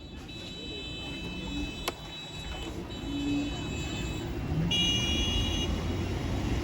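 Wind and road rumble from a moving motorbike, growing louder. Over it, steady high electronic tones sound in three stretches of about one to two and a half seconds each, the last at a different pitch. There is one sharp click about two seconds in.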